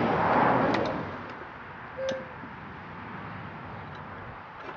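Metal parts being worked by hand: a scraping rush in the first second, then a few sharp clicks and a knock with a short ring about two seconds in, as a tight pulley is jolted onto an old engine's flywheel.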